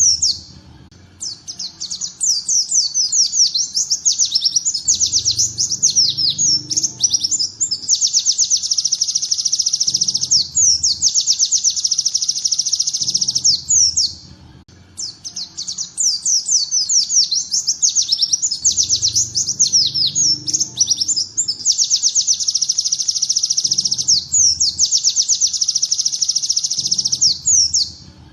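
Songbird tutor recording of 'tembakan ciblek': bar-winged prinia-style rapid-fire song, long high trills of fast repeated down-slurred notes. It breaks off briefly about a second in and again around the middle, and the same sequence seems to repeat as a loop.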